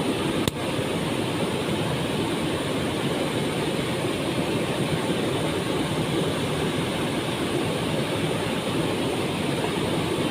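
Waterfall pouring and splashing: a steady, dense rushing of water, with one brief click about half a second in.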